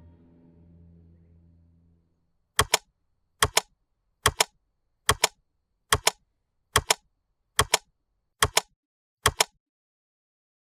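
Background music fading out, followed by nine evenly spaced double clicks about 0.85 s apart. The clicks are sharp and mechanical-sounding, like an edited-in sound effect, and stop before the end.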